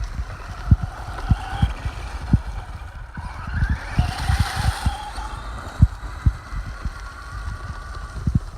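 Brushless electric motor of a Traxxas Rustler RC truck (Castle Creations system) whining as the truck speeds up and slows, loudest about four seconds in, with irregular low thumps throughout.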